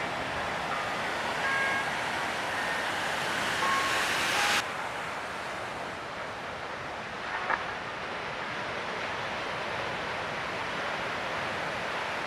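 Steady rush of ocean surf and wind. A few faint short beeping tones sit over it for the first four and a half seconds, then the noise drops suddenly to a lower hiss, with a single click about seven and a half seconds in.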